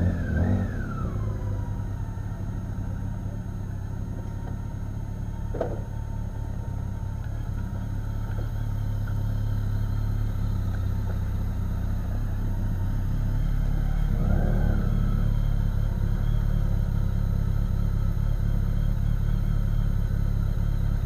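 Motorcycle engine running with a steady low drone that slowly grows louder.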